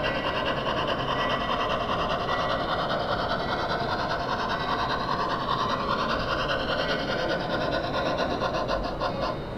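Model train running on a layout: a steady mechanical whirr and rattle whose pitch drifts slowly, easing off just before the end.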